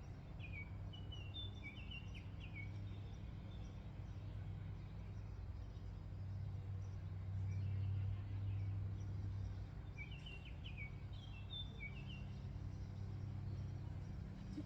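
A songbird singing two short runs of quick chirps, one about a second in and another about ten seconds in, over a steady low outdoor hum.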